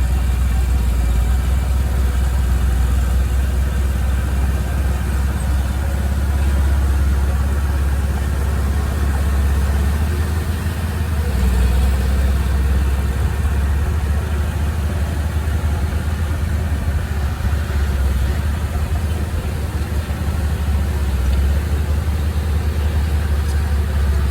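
Heavy machinery's diesel engine running steadily with a deep, low rumble, easing slightly a couple of times.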